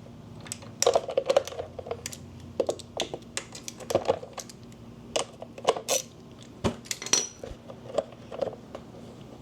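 Hand tools and bolts clicking and clinking against a dirt bike's skid plate as its bolts are loosened and taken out by hand, in irregular little clusters. A sharper knock comes about two-thirds of the way in, followed by a short ringing metal clink.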